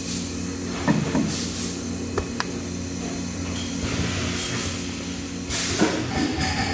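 Workshop noise: a steady low machine hum with a few sharp metallic clicks and several short bursts of hissing.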